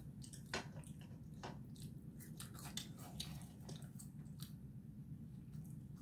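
Faint chewing, with soft irregular mouth clicks and smacks while eating fast food.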